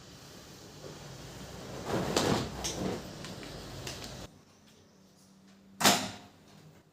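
Household handling noises: rustling and light clatter, then one sharp knock near the end.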